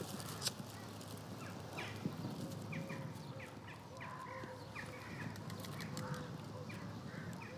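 Birds calling: short, falling chirps repeating about twice a second, faint, over a steady background hum.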